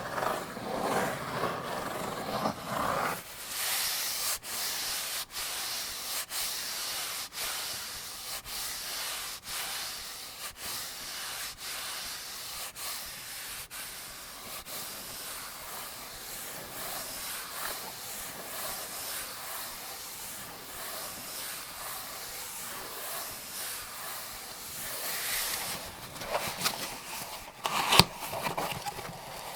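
Cartridges being pressed one at a time into an AK-47 75-round drum magazine: a long series of sharp metallic clicks, roughly one every second, over a steady hiss. A noisy rushing sound fills the first three seconds and stops suddenly, and there is handling noise with one louder clack near the end.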